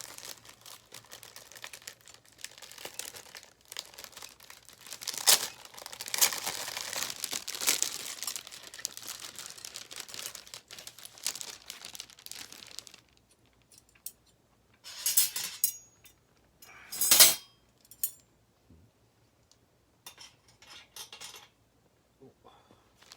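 Packaging crinkling and rustling steadily for about thirteen seconds, then a few shorter rustles with quiet gaps between them.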